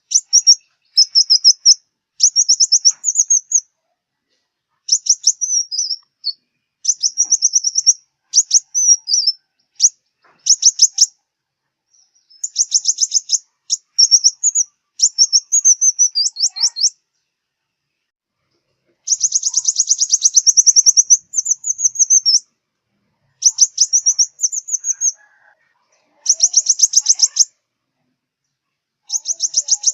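Sunbird song: high, rapid trilled phrases about a second long, repeated with short pauses, some ending in a quick twittering flourish.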